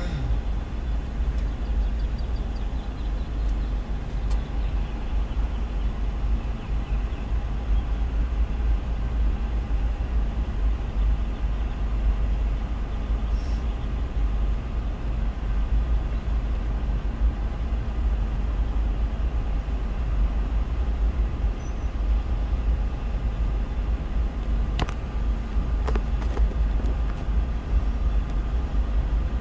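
Freight train of tank cars rolling past, a steady low rumble heard from inside a car, with a couple of faint clicks near the end.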